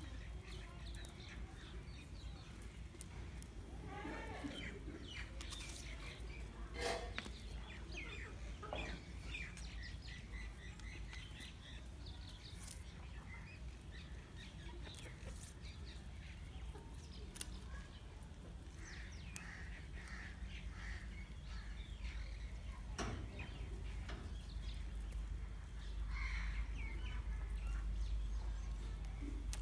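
Birds chirping and calling off and on over a steady low rumble, with a few sharp clicks.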